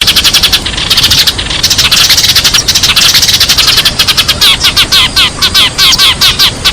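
A flock of sparrows chirping in a dense, rapid chorus of overlapping short chirps, with no pause.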